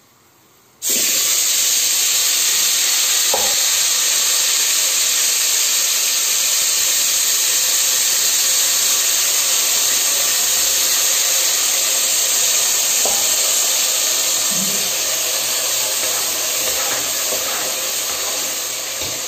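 Tomato paste hitting hot oil in a pressure cooker: a loud sizzle starts suddenly about a second in and keeps going steadily, easing slightly near the end.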